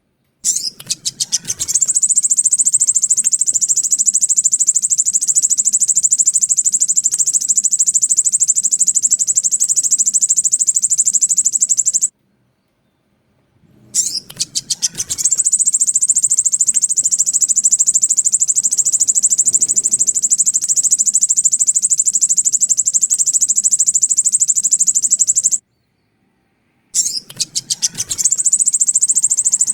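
Sogon sunbird lure call: a very high, rapid, unbroken trill in three long bouts. Each bout opens with a quick stutter of separate notes, and a short silence falls between bouts. It is a looped playback track, used to lure wild sogon and to bring caged birds into song.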